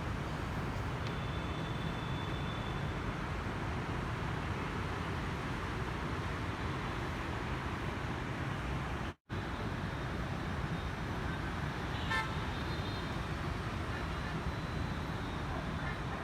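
Steady road traffic noise, with a vehicle horn tooting briefly a few times. The sound cuts out for an instant about nine seconds in.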